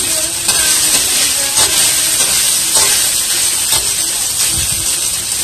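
Diced ham sizzling lightly in a wok while a slotted spatula stirs it, scraping across the pan four times.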